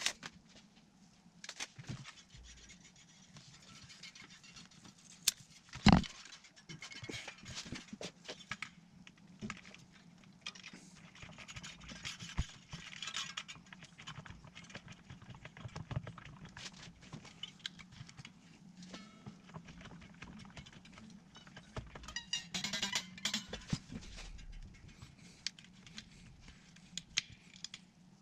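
Handling noises on a workbench: scattered scrapes, scratches and small clicks, with one loud knock about six seconds in, over a faint steady hum.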